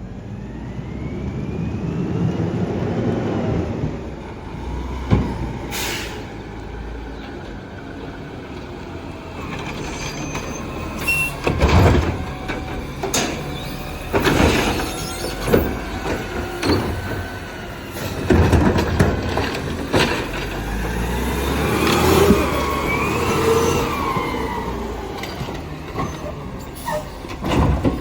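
Garbage truck running while trash barrels are lifted and dumped: many sharp knocks and bangs as the barrels are shaken out, over a low engine rumble, with a whine that rises and falls from the truck's hydraulics.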